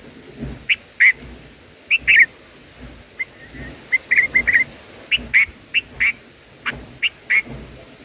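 Bird calling in short, sharp chirps, about a dozen spread irregularly, with a quick run of notes about halfway through.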